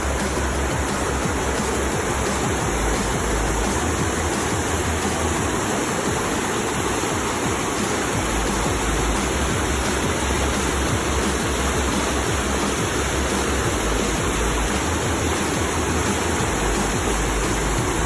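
Waterfall water rushing in a steady, even roar of white noise.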